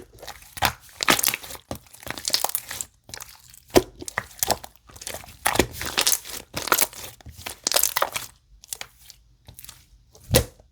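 Slime being squeezed and pressed by hand, making an irregular run of short crackles and pops, the sharpest pop near the end.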